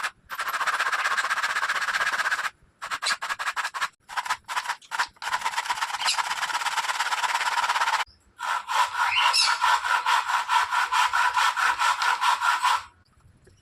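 Hand saw cutting a wooden batten to size, rapid back-and-forth strokes in several runs with a few sudden breaks.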